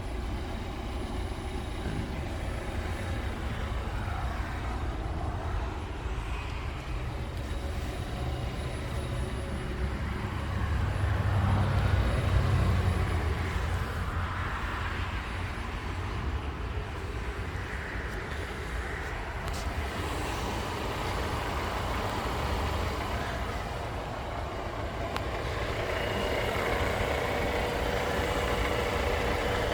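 Low, steady motor-vehicle rumble with outdoor background noise, swelling for a couple of seconds about eleven seconds in.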